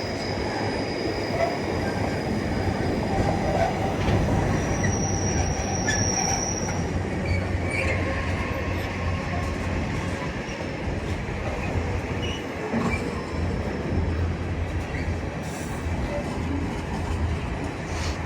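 A train moving along the track with a steady low rumble, and a brief high-pitched squeal about five seconds in.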